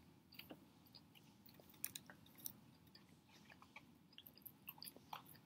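Faint chewing of a mouthful of burger, mouth closed: soft, scattered wet mouth clicks.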